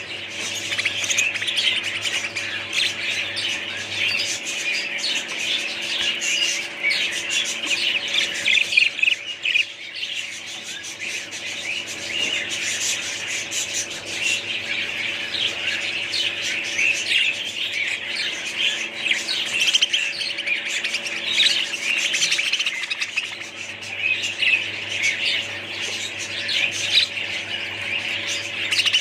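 Many small parrots chirping together, a dense, continuous mass of overlapping high calls, over a faint steady hum.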